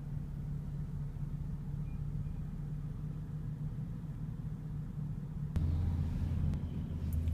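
Steady low hum of a 2014 BMW 435i idling, heard from inside the cabin. About five and a half seconds in there is a click, and a deeper hum then gets louder.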